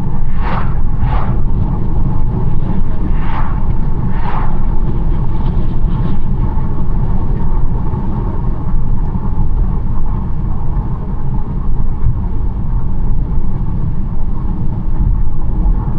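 BMW 1 Series driving on a country road: a steady low rumble of road and engine noise, with four short swishes in the first five seconds.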